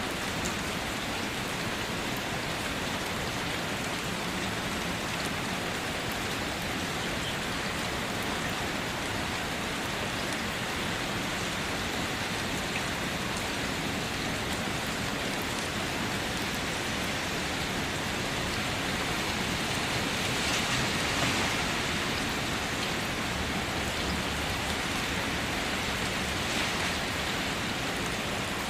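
Steady rain falling: an even hiss of rainfall with scattered drop ticks, briefly heavier about twenty seconds in.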